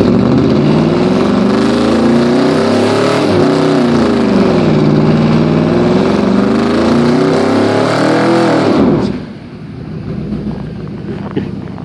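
2004 Chevrolet Suburban's V8 revving loudly through a custom Magnaflow exhaust. Engine speed climbs, eases off briefly, climbs again, then drops back to a quieter idle about nine seconds in.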